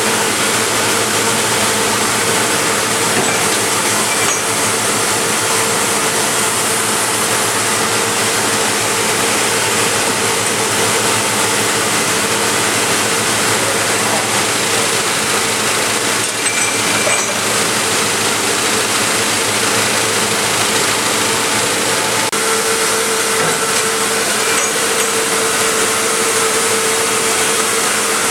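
Double disc grinder running in production: a steady, unbroken hiss with a constant mid-pitched hum.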